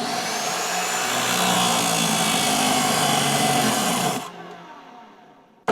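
Electric chop saw running and cutting wood, then cutting out about four seconds in and winding down as it trips the circuit breaker from overheating.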